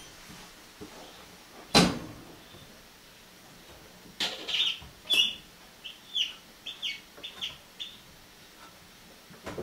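A single sharp knock about two seconds in, then a bird chirping in short high notes, about ten of them over four seconds.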